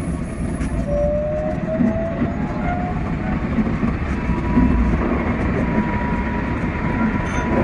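Keikyu 600-series electric train running, heard from the driver's cab: a steady rumble of wheels on rail with faint clicks. A faint rising whine comes in about a second in, and a steady higher tone sounds in the later part.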